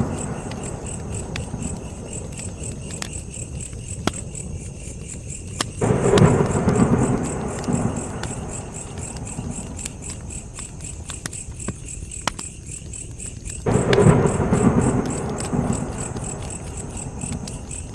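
Campfire crackling with sharp pops over steady cricket chirping, while a low rumble of distant thunder swells up twice, about a third of the way in and again past the two-thirds mark, each fading slowly.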